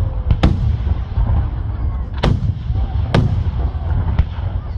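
Aerial firework shells bursting: three loud, sharp bangs (about half a second in, just after two seconds and just after three seconds) and a fainter pop near the end, over a continuous low rumble of the display.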